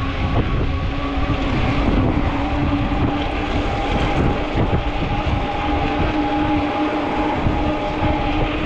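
Wind buffeting the microphone during an e-bike ride, with the steady whine of the Ecotric folding fat-tire e-bike's electric motor running under it.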